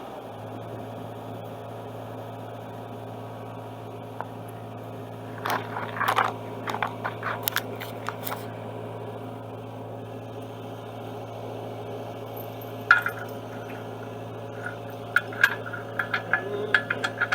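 Excavator diesel engine running at a steady idle, its pitch settling slightly lower at the start. Over it come several bursts of sharp metal clinks and clanks, thickest near the end.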